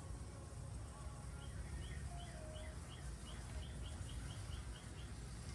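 A bird chirping a quick run of about a dozen short, high notes, roughly three a second, over a steady low background hum.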